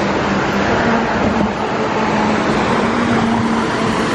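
Waterfall on the Cross River rushing, a loud, steady wash of falling water.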